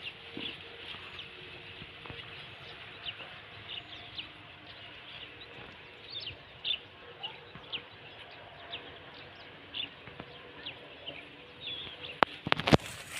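Birds chirping: many short, quick chirps, some sliding in pitch, repeating throughout. Near the end a few sharp knocks are louder than the birds.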